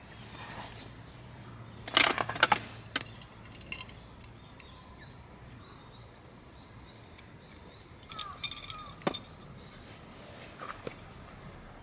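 Short clicks and clatter of things being handled, the loudest cluster about two seconds in and another group with a sharp knock around eight to nine seconds, over faint outdoor background.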